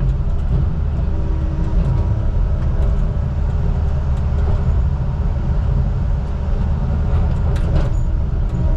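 Heavy diesel engine of logging equipment running steadily with a deep, even rumble.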